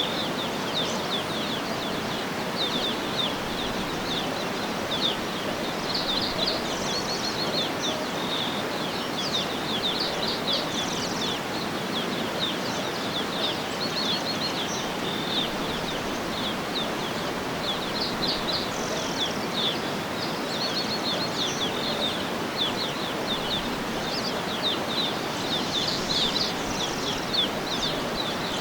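Many small birds chirping and twittering in quick, high notes throughout, over a steady, even rushing background noise.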